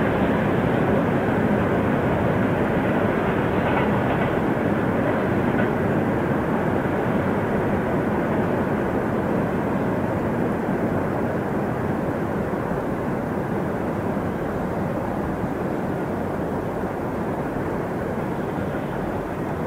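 Freight train rolling along the track: a steady rumble of wheels on rails that slowly eases off.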